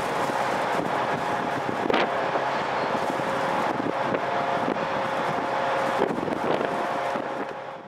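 Class 67-hauled passenger train pulling away: a steady rumble and hum with a couple of short knocks from the wheels. The sound dies away at the very end.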